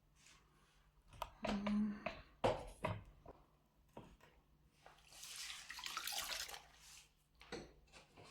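Knocks and clatter of items being handled while a fridge is being cleaned out, then about two seconds of rushing, hissing noise like running water.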